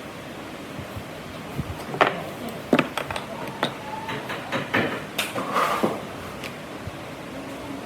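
Irregular knocks and clatter of wood and tools being handled on a workbench, starting about two seconds in, over a steady background hiss.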